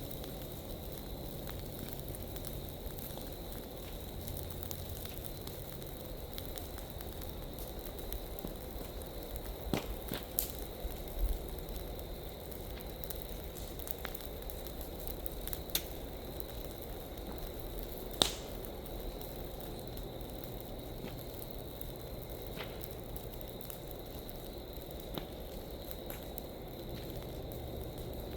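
Large piles of dry leaves burning, a steady low crackle with scattered sharp pops, the loudest about two-thirds of the way through.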